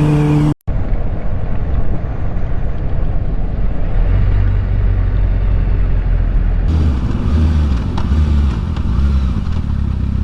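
Motorcycle engine running under way with heavy wind noise on the rider's camera microphone, broken by a brief gap about half a second in. The low engine note grows heavier partway through and pulses unevenly near the end.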